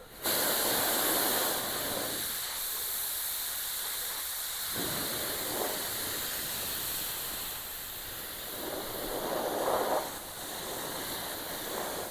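Compressed-air paint spray gun hissing as it sprays primer at low pressure with a narrowed fan pattern. The hiss starts suddenly as the trigger is pulled and carries on steadily, swelling and easing a little as the gun moves.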